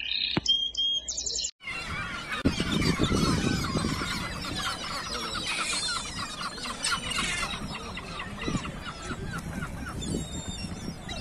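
Birds calling. A run of quick, repeated falling chirps stops abruptly about a second and a half in, and a dense chatter of many overlapping calls follows.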